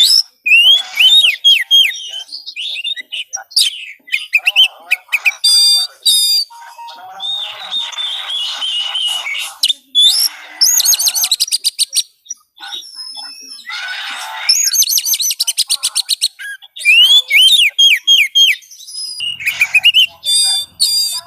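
Oriental magpie-robin (kacer) singing a loud, varied song: slurred whistles, rapid trills of repeated notes and chattering phrases, one after another with brief pauses between them.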